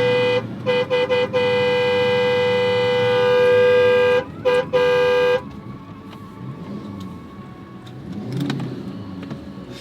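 Vehicle horn honking: long held blasts broken by a few quick toots, stopping about five seconds in, after which a quieter vehicle running and road noise carries on.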